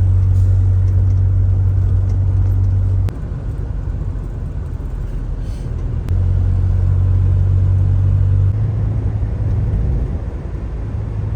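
Low, steady rumble of a vehicle on the move. It drops abruptly about three seconds in, comes back about three seconds later, and eases again after eight seconds.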